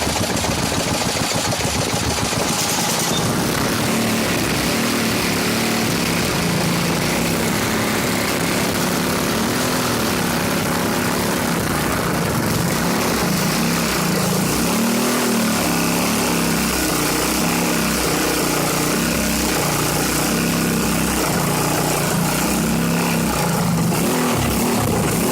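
Briggs & Stratton 3.5 hp single-cylinder engine running loud, its speed wavering up and down. It is typical of an engine the owner says misfires a lot, run with ATF and WD-40 in its oil.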